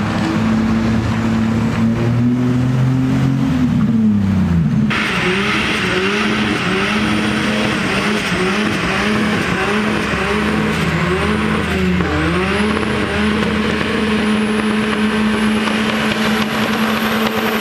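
Car engine running steadily, then dropping in pitch about four seconds in. From about five seconds in a steady hiss sets in, and the engine revs up and down repeatedly, about once a second.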